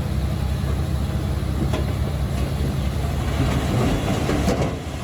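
Komatsu D21P crawler bulldozer's diesel engine running steadily under load, with the clatter of its steel tracks; the clanking grows a little louder near the end.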